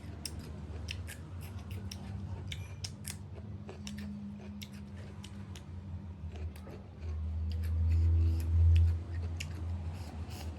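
Irregular sharp clicks and ticks, several a second, over a steady low hum; a louder low rumble swells in about seven seconds in and fades about two seconds later.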